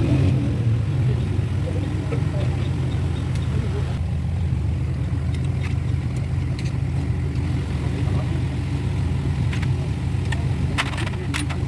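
A steady low engine drone, with a few sharp clicks near the end.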